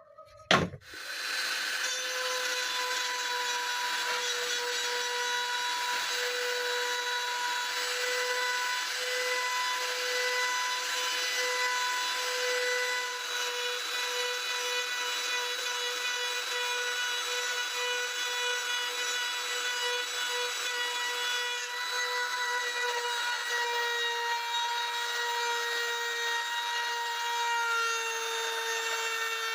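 A small electric motor running at a steady speed with a whirring hiss and a constant hum, switched on with a click just after the start.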